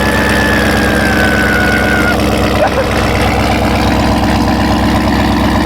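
Chevrolet Camaro's V8 idling steadily, shortly after a cold start in freezing weather. A thin high whine slowly falls in pitch over the first two seconds.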